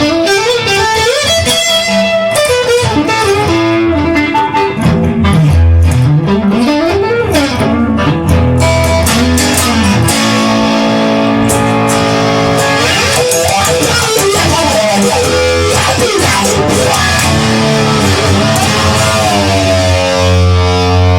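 Instrumental music: a guitar lead of notes that bend and glide up and down over a steady bass. A held, ringing chord comes in near the end.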